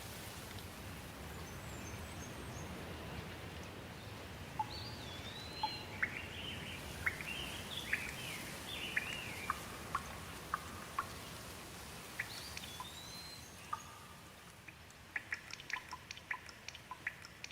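Steady rain falling, with many water drops plinking and a bird giving a few short whistled calls. The rain eases near the end, leaving mostly quick drips.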